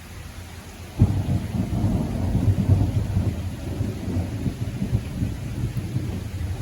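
Thunder during a rain shower: a sudden clap about a second in, then a low rolling rumble that slowly eases, over a steady hiss of rain.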